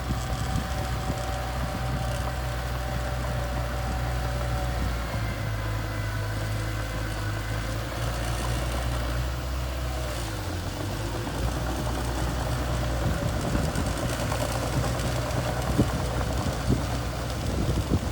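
Small bulldozer's engine running with a steady low drone; its note shifts about ten seconds in and again a little later, and a few sharp knocks come near the end.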